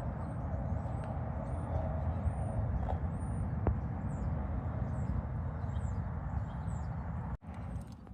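Steady rumble of interstate traffic, engines and tyres going by, with small birds chirping over it in short high calls. The traffic noise cuts off suddenly near the end and comes back much quieter.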